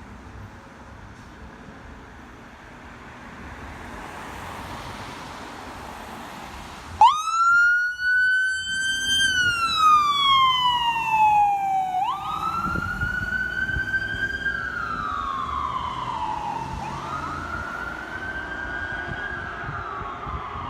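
Electronic siren of an emergency vehicle, faint for the first few seconds, then sounding loudly about seven seconds in on a slow wail. It rises quickly and falls off over about five seconds, three times.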